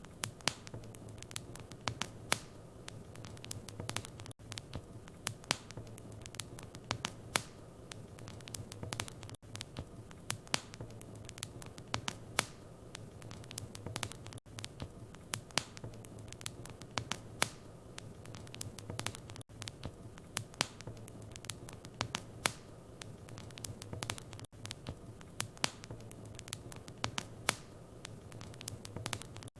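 Wood fire in a fireplace crackling: irregular sharp pops and snaps over a low steady hum, with a brief dropout about every five seconds.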